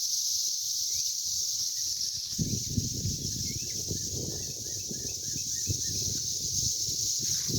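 A chorus of cicadas buzzing in one steady, unbroken high drone. A quick run of short chirps comes in the middle, and a low rumble starts about two and a half seconds in.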